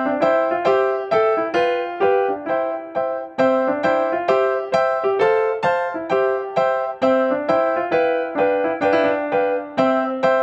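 Background music: a light piano or electric-piano melody, several notes a second with a simple accompaniment.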